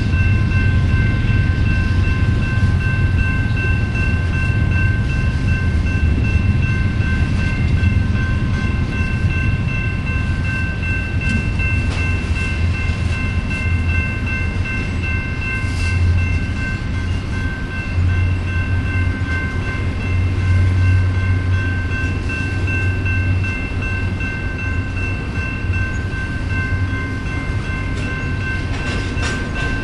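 Double-stack intermodal freight train of loaded well cars rolling past, a steady low rumble of cars and wheels on the rails. A steady high-pitched ringing holds throughout over it.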